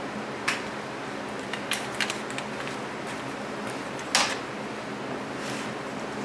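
One-handed quick-grip bar clamps being fetched and handled: a few scattered clicks and knocks, the loudest about four seconds in, over a steady background hum.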